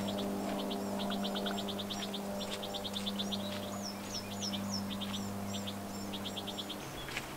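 Songbirds singing: repeated short trills of rapid high notes, with a few slurred whistles in the middle. Under them runs a steady low hum that drops in pitch near the end.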